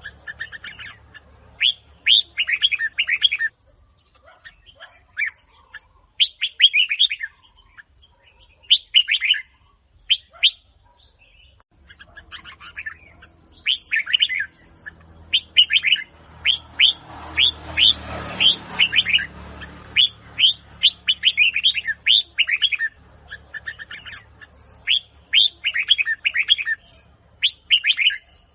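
Red-whiskered bulbul (Huế chào mào) singing: repeated phrases of quick, bright chirping notes in bursts a second or two long, with short pauses between them.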